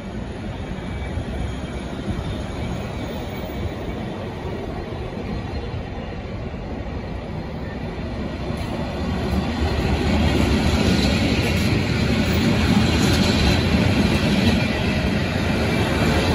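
Matterhorn Gotthard Bahn metre-gauge passenger carriages rolling past at close range, with wheel-on-rail rumble. The sound grows louder about ten seconds in as the locomotive end of the train approaches.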